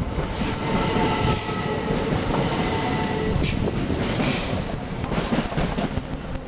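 Class 375 Electrostar electric multiple unit running past on the rails, with steady motor tones over the wheel rumble and about five short high hisses.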